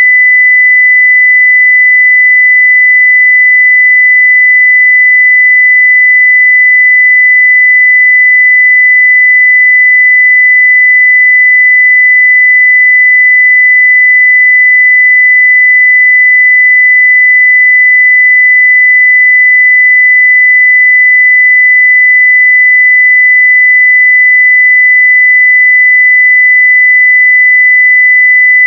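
Steady 2 kHz sine-wave test tone at full-scale level (0 dB), one pure unchanging pitch.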